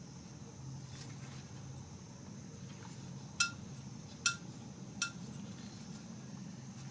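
Three sharp metallic clinks, a little under a second apart, each with the same short ring, as small metal engine parts or tools are handled. A faint low hum runs underneath.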